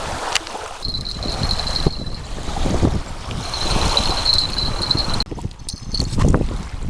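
Strong wind gusting over the microphone in a heavy, irregular rumble. A thin, steady high-pitched tone sounds twice over it, about a second in and again around the middle.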